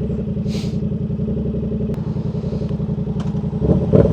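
Yamaha R7's 689 cc parallel-twin engine idling steadily at low revs, then picking up a little near the end.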